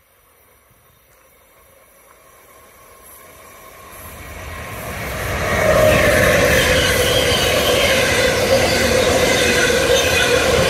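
Intermodal freight train hauled by an electric locomotive, approaching and then rolling past close by. It grows steadily louder over the first six seconds, then holds a loud, even rumble of wagons on the rails with a steady high-pitched ringing tone on top.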